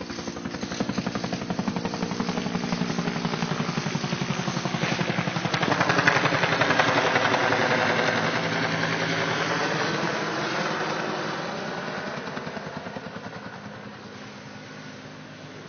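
A heavy vehicle's engine running with a fast, even pulse, drawing nearer, loudest about six to eight seconds in, then fading as it passes.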